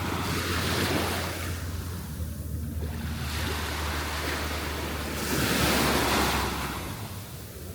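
Small surf washing onto a sandy beach, two waves breaking and running up, the second louder, about five seconds in. Wind rumbles on the microphone underneath.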